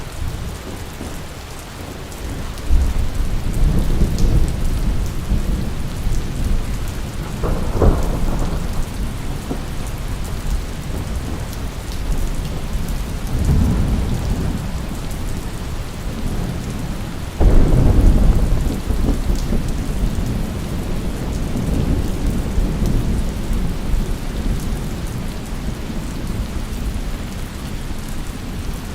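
Steady rain with repeated rolls of thunder: low rumbles swell and fade several times, and the loudest one starts suddenly a little past halfway through.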